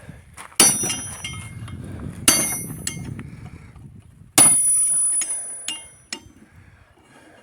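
Hammer blows on a bent metal gate-opener arm bracket lying on a small anvil, to straighten it. There are three ringing metal strikes about two seconds apart, followed by a few lighter clinks.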